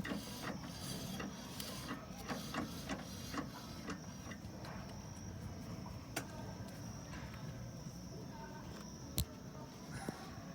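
Fiat Uno's front brake disc turning on the hub with its pads and pad spring refitted, giving light irregular clicks and rubbing. The clicks are frequent at first, then sparser, with a sharp click about six seconds in and another about three seconds later.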